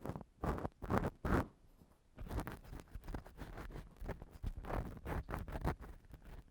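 Ear-cleaning tools scraping and rubbing on a microphone: a few short scratchy strokes, a brief pause about two seconds in, then quicker, closer-spaced strokes.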